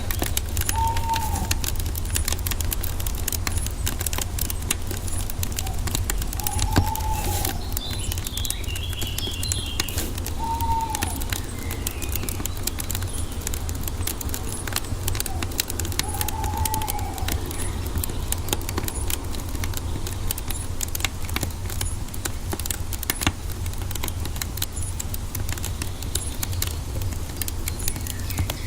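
Wood fire crackling with frequent sharp pops over a low rumble. A bird gives a short arching call four times and chirps briefly near the middle.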